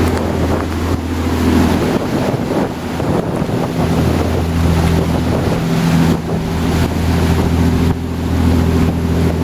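A 36-foot Mariner Searanger motor cruiser's engine running at a steady pitch, under heavy wind buffeting the microphone and the noise of water along the hull.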